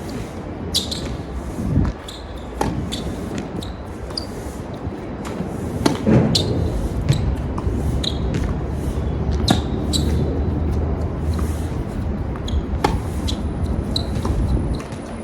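Tennis balls struck by rackets and bouncing on the court during a rally: a string of sharp pops, irregularly spaced, about one every half second to a second. Strong wind buffets the microphone underneath.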